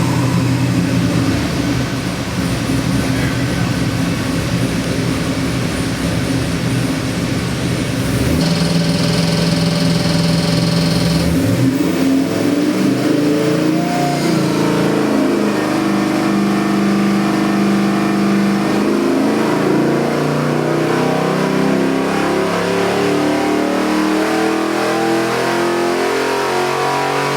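Chevrolet LS7 427 cubic-inch (7.0 L) V8 crate engine running: it idles steadily for several seconds, is held briefly at a higher speed, then is revved up and down repeatedly for the rest of the time.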